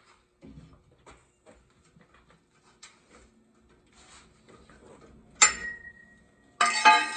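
Faint clicks and taps of hand tools on metal, then a sharp metallic clank that rings briefly about five seconds in. Near the end a power tool starts up loudly, beginning the cut on the exhaust pipe to remove the catalytic converter.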